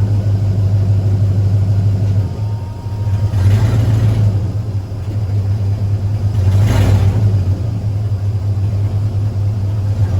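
A 1961 Chevy Apache pickup running as it is driven, a steady low engine rumble with louder, noisier surges about three and a half and seven seconds in.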